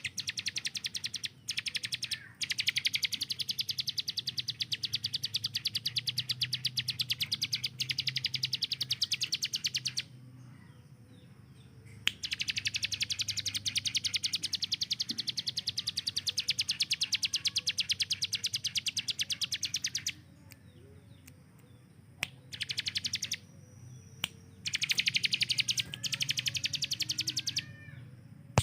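Ciblek gunung, a small prinia kept as a songbird, singing its machine-gun 'tembakan': long runs of very fast, evenly repeated high notes lasting several seconds each. The runs are split by short pauses, in which fainter chirps are heard.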